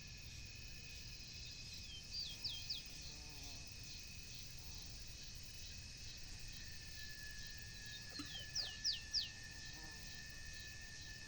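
A bird calling twice, each time a quick run of three or four sharp, falling whistled notes. Underneath runs a steady high-pitched insect drone and a low rumble.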